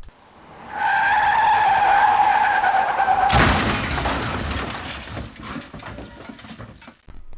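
Cartoon sound effect: a long squeal like skidding tyres for about two and a half seconds, then a sudden crash that dies away slowly.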